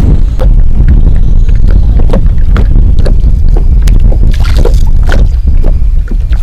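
Strong wind buffeting the microphone, a constant low rumble, with scattered short knocks and clicks on top.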